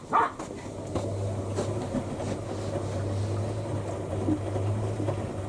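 Front-loading washing machines running mid-cycle, a steady mechanical churn. A steady low hum sets in about a second in and holds.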